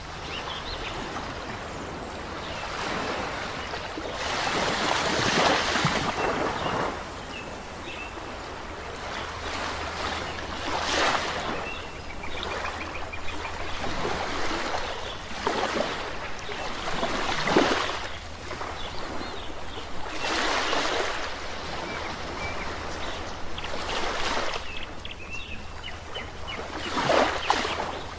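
Small waves breaking and washing up a beach, one surge every few seconds, with birds chirping faintly between them.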